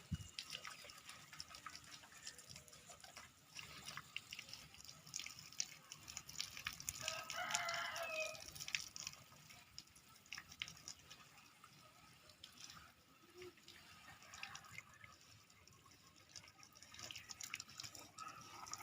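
Rain dripping and pattering in small scattered ticks, with one drawn-out pitched call of about a second and a half about seven seconds in.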